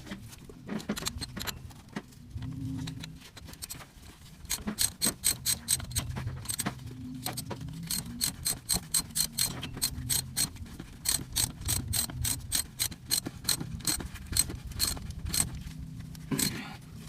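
Ratchet wrench clicking in quick, even strokes while doing up the bolts on a turbocharger, about three or four clicks a second from a few seconds in until near the end.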